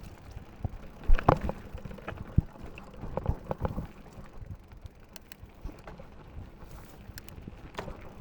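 Mountain bike rattling and knocking as it rides down a rough trail, with tyre noise and wind on the microphone. The sharpest knocks come about a second in and again around three seconds in.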